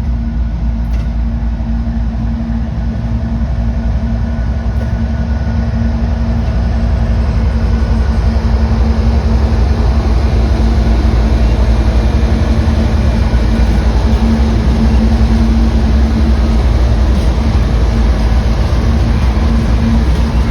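Train running by with a steady low rumble and a held engine hum, growing louder over the first several seconds and then holding steady.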